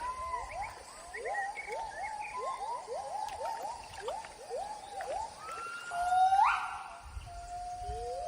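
Gibbons singing: a fast run of whooping notes that rise and fall, then longer notes climbing into a loud rising whoop about six seconds in.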